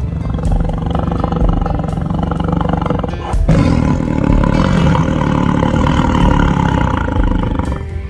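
Big cat growling, a long rough growl that breaks off about three and a half seconds in, followed by a second, louder growl.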